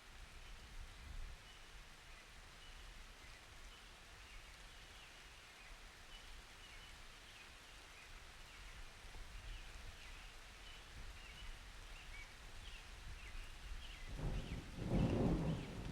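Faint steady rain. About fourteen seconds in, a low rumble of thunder builds up and grows loud at the end.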